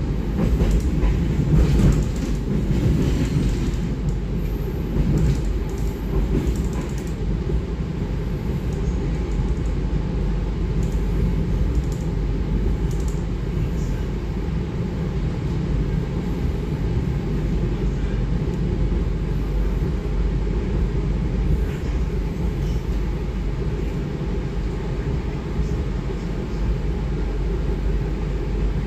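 Passenger train running along the rails, heard from inside an economy-premium coach: a steady low rumble, with scattered sharper clicks and rattles in the first several seconds.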